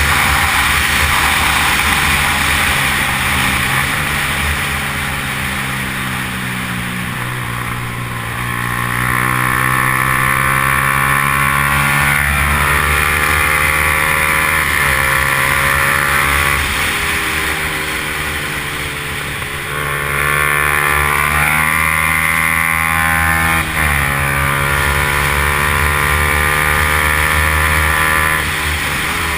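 Yamaha R15's single-cylinder four-stroke engine running hard at racing revs. Its pitch climbs in long rising sweeps and drops sharply again and again as the rider works through the gears.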